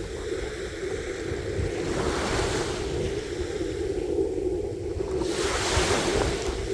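Ocean waves washing onto a shore: a continuous low rumble of surf, with the hiss of a breaking wave surging up about two seconds in and again near the end.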